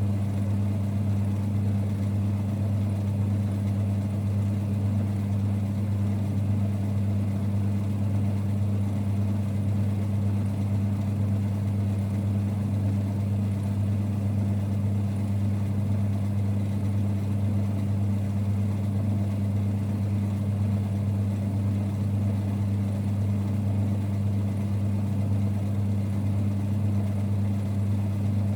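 1946 Boxford lathe running steadily: an even low rumble with a strong, unchanging hum.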